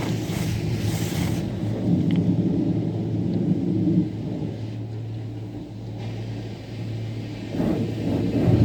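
A steady low mechanical hum under a rumbling noise. The noise is louder in the first second and a half, eases off, and swells again near the end.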